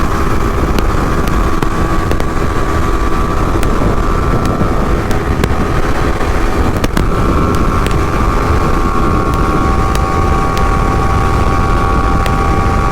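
Motorcycle running at a steady speed on the road, with wind rushing over the microphone.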